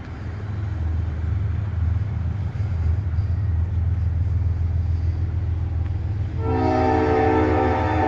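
Leading GE ES44AH diesel locomotive running with a low, steady rumble that grows louder as it approaches. About six seconds in, its Leslie S5T five-chime air horn starts sounding a loud, steady chord that holds to the end.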